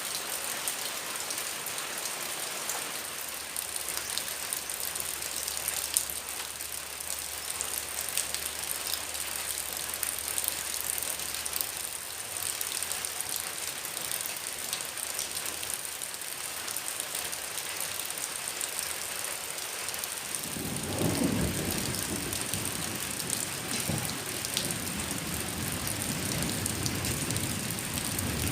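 Heavy rain falling steadily, with drops pattering on a surface. About twenty seconds in, a low rolling rumble of thunder joins the rain and goes on to the end.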